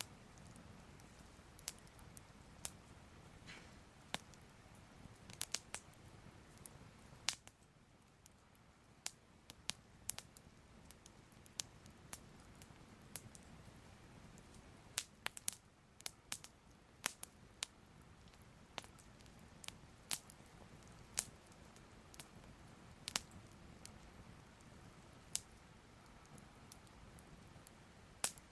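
Soft crackling of a fire: irregular sharp pops and snaps, sometimes in quick clusters, over a faint steady background.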